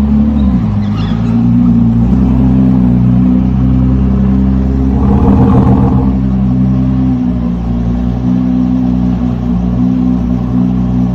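Car engine running loud and steady, a low droning note, with a brief brighter surge about halfway through.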